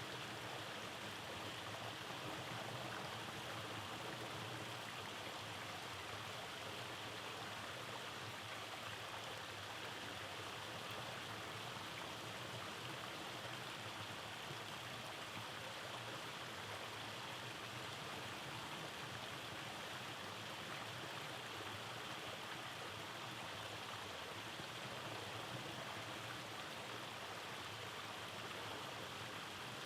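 Rainforest stream running over small cascades: a steady, even rush of flowing water.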